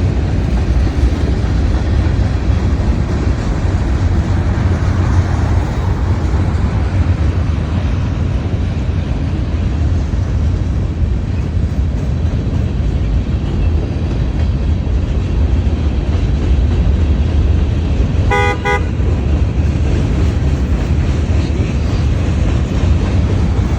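CSX mixed freight train rolling past with a steady, loud rumble of its cars. A single short horn beep sounds about three quarters of the way through.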